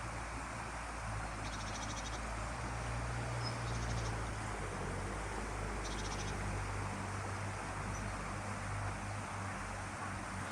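Outdoor nature ambience: three short, high, rapidly pulsed trills from a small calling animal, about a second and a half, four and six seconds in, over a steady low hum.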